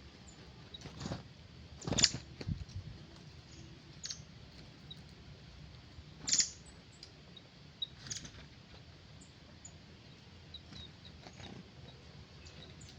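Faint, short bird chirps with several sharp clicks or knocks among them, the loudest knocks about two seconds in and again about six seconds in.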